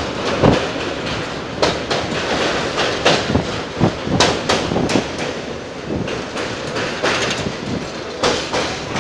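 Mumbai suburban electric local train running at speed, heard from outside on the coach. A continuous rush of running noise carries irregular knocks and clatters as the wheels pass over the rail joints.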